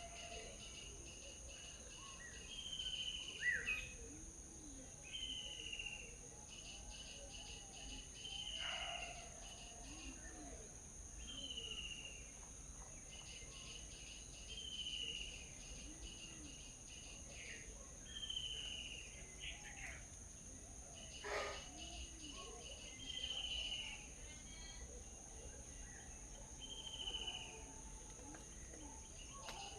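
Birds calling over a steady high insect drone. One bird repeats a short falling whistle about every three seconds, and other birds add scattered chirps.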